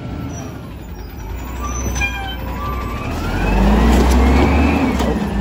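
Volvo WX garbage truck with a Bridgeport Ranger automated side loader revving up over a low engine rumble. A whine rises in pitch and the sound grows louder from about three seconds in. There are a few short high chirps about two seconds in.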